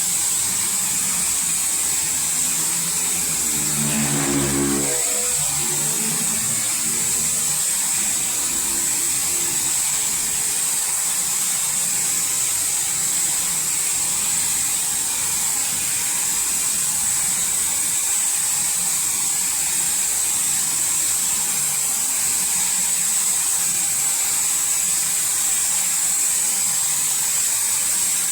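Steady hiss of a robotic car wash machine spraying water onto a car, with a brief pitched hum about four seconds in.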